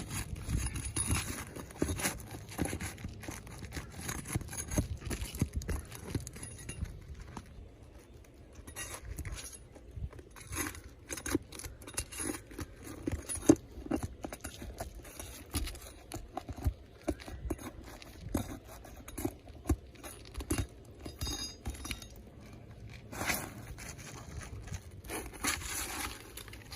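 Irregular scraping, clicks and knocks of hands and a tool working an asphalt roof shingle loose to pull it out, with one sharp click about halfway through.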